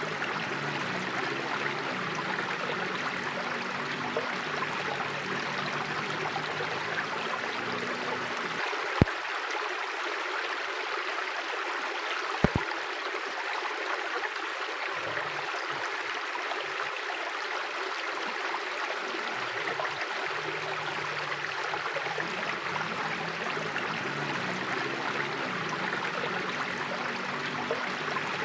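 Mountain river flowing with a steady, even rushing. Its deeper low part fades out for about ten seconds in the middle. Two sharp clicks, about three and a half seconds apart, stand out partway through.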